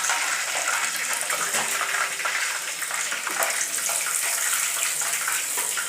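Chicken pieces deep-frying in hot oil: a steady sizzle with many small crackles and pops.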